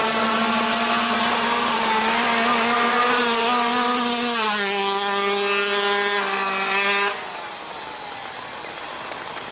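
A drag-race motorcycle engine held at steady high revs over a hiss. Its pitch dips slightly about halfway through, and it cuts off about seven seconds in, leaving a quieter steady hiss.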